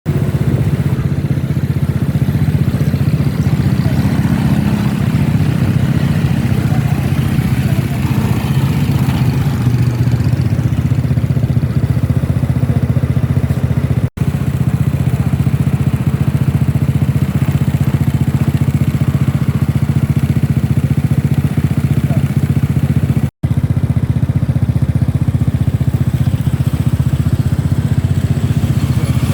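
An engine idling steadily with a low, even hum. It drops out briefly twice, once about halfway through and again about three-quarters through.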